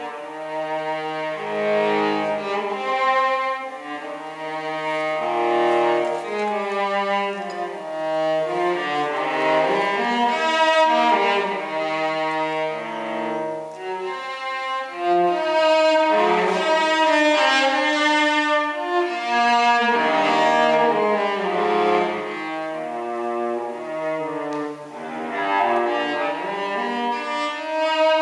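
Solo cello playing a continuous bowed classical passage, changing notes steadily, with some low notes in the instrument's bottom register.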